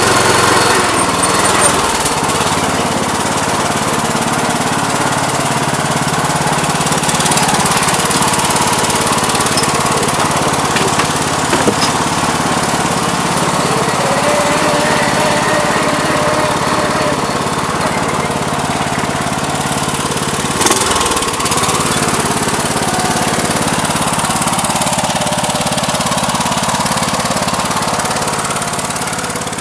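The 20-horsepower Kohler engine of a Toro garden tractor running steadily, still warming up after a cold start. It eases off slightly near the end.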